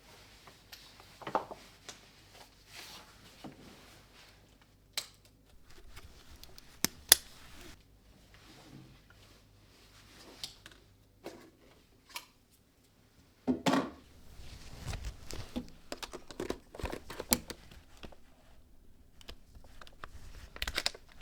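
Close handling noise: irregular clicks, taps and rustles, with a busier stretch of knocks and rustling a little past the middle.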